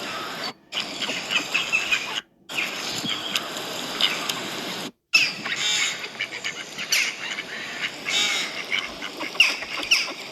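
A flock of ducks quacking, many short calls overlapping. The sound cuts out to silence briefly three times, at about half a second, two seconds and five seconds in, where separate recordings are joined.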